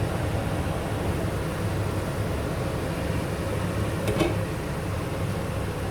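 Steady low mechanical hum, like a fan or burner running, with a single sharp clink about four seconds in.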